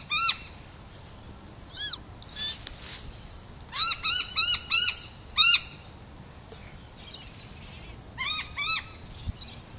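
Birds giving harsh, arching alarm calls in short runs of a few quick notes, with pauses between, as they mob a cat on the ground.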